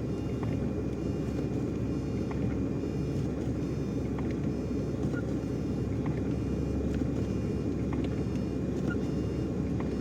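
Steady low drone of a lorry engine and road noise heard from inside the cab as the truck crawls along a snowy mountain road, with a few faint ticks.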